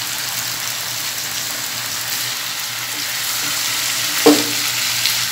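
Boiled beef tripe sizzling in oil and spice paste in a frying pan while a spatula stirs it in, a steady frying hiss. There is one brief louder knock about four seconds in.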